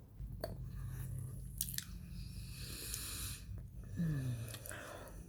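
A person chewing crunchy microwaved Kingsford cornstarch chunks, with a few sharp crunches and a stretch of crackling chewing in the middle. A short, low falling sound comes about four seconds in.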